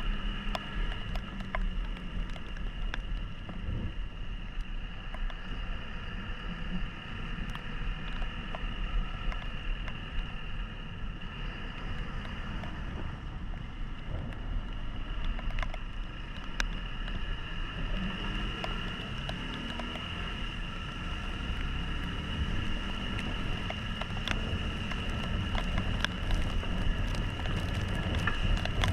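Yamaha XTZ 150 Crosser's single-cylinder engine running steadily while riding in the rain, revving up briefly about two-thirds of the way through, over a low road and wind rumble with scattered sharp ticks from raindrops.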